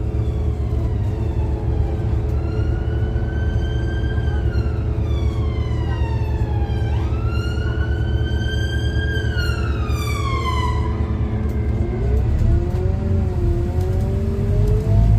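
An emergency vehicle's siren wailing, slowly rising and falling in pitch, over the steady low running of a Scania N250UD double-decker bus's engine. The siren fades away about two-thirds of the way through, and near the end the bus engine's note rises as it pulls away.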